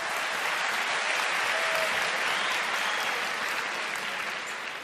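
Audience applauding after a punchline, a dense steady clapping that eases off near the end.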